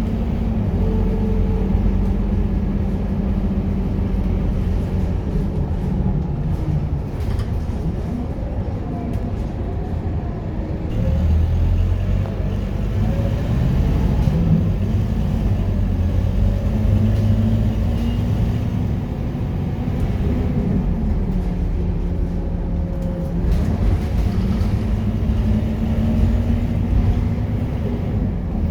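Scania K230UB single-deck bus's five-cylinder diesel engine running on the move, with a steady low rumble. The engine note sinks and climbs several times as the bus slows and pulls away again.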